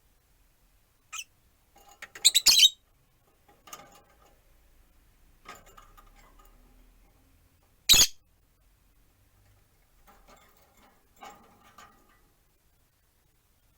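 Peach-faced lovebirds chirping and squawking in short, scattered bursts, with a loud cluster of calls about two seconds in and a single sharp, loud sound about eight seconds in.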